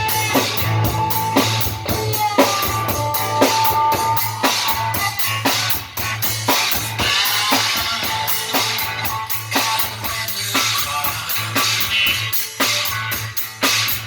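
Rock and roll band playing, with guitar over a drum kit keeping a steady beat.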